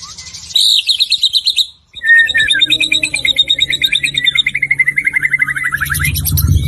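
Songbird singing fast trills: a short trill, a brief pause about two seconds in, then a long rapid trill that slowly falls in pitch, with higher chattering near the end. A low hum comes in near the end.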